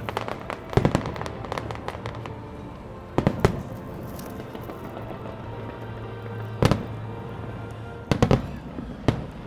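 Fireworks display: shells bursting with sharp bangs every one to three seconds, some in quick pairs, with crackle between them, over steady background music.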